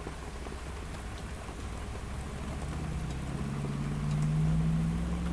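Steady rain falling. A low pitched hum swells louder from about halfway through and cuts off near the end.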